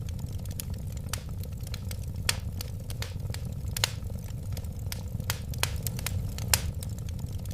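Wood fire burning with a steady low rumble of flames and irregular sharp pops and crackles, several a second.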